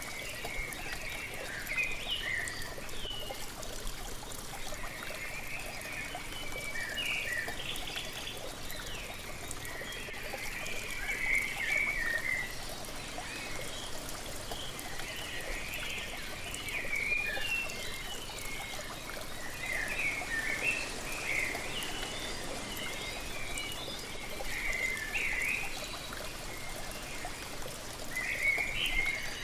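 Steady rush of a waterfall with small birds chirping and singing in short, repeated phrases throughout.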